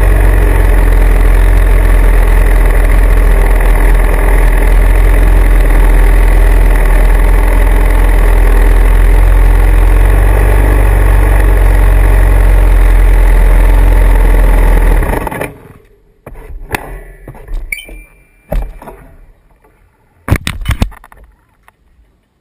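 Motorcycle engine running steadily, then cutting off abruptly about fifteen seconds in. After that it is quiet apart from a few scattered knocks and clicks.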